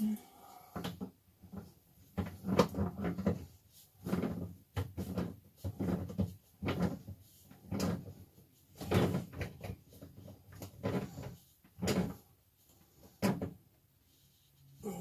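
Channel-lock pliers gripping and turning the water-line fitting on a Thetford RV toilet: a string of irregular clunks and clicks as the fitting is tightened.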